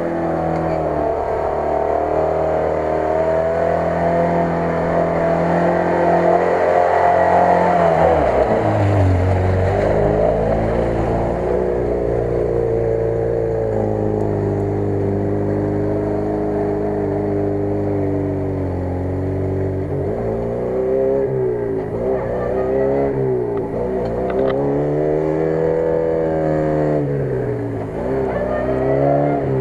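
Lada Niva engine running at high revs as the off-roader ploughs through mud and water, its wheels spinning. In the second half the engine is revved up and down over and over, about once every second and a half.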